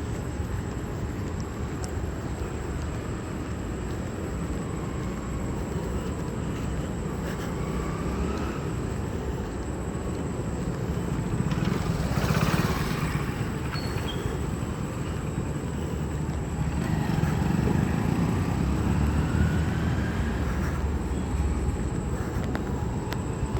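Steady low rumble of outdoor vehicle noise, swelling briefly about halfway through, with faint sliding tones over it.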